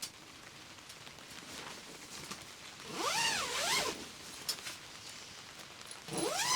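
Tent zipper pulled in two strokes, a short one about three seconds in and a longer one near the end. Each gives a whirring zip whose pitch rises and falls as the pull speeds up and slows.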